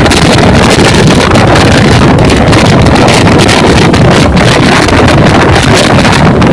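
Train running at high speed, its rumble under heavy wind buffeting the microphone. The noise is loud and steady, with no break or change.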